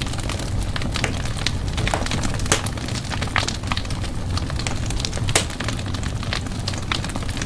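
Wood fire in a fireplace crackling, with irregular sharp pops over a steady low rumble from the burning; two louder pops come about two and a half and five and a half seconds in.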